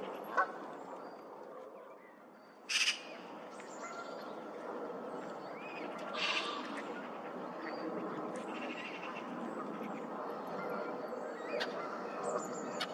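Birds calling: two loud, harsh calls about three and six seconds in, with a few fainter short chirps, over a steady background noise.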